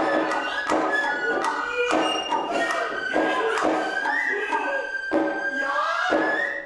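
Noh hayashi music: a nohkan bamboo flute plays a high, held melody that slides upward in places, over sharp, repeated hand-drum strikes.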